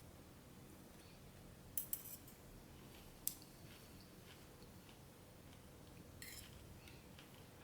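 Faint clicks and taps of tableware at a meal: a quick pair of light clicks a couple of seconds in, a sharper single click about three seconds in, and a soft brush of sound near the end, over quiet room tone.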